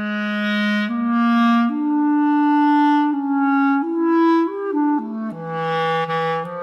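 A solo woodwind instrument, clarinet-like, plays a slow improvised melody in its low register. It holds notes of about a second each, stepping upward through the first half and then back down toward the end.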